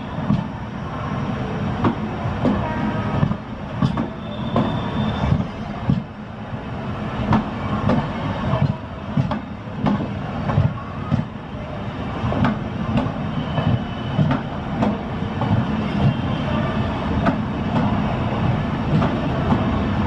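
Express train of LHB passenger coaches rolling past, its wheels clattering over the rail joints in an uneven run of clicks and knocks over a steady low rumble.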